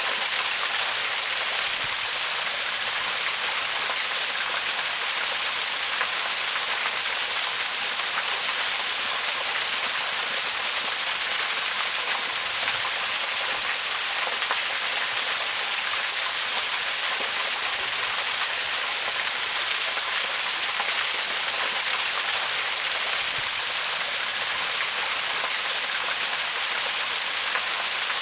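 Waterfall: a steady, unbroken rush of falling water, bright and hissy with little bass.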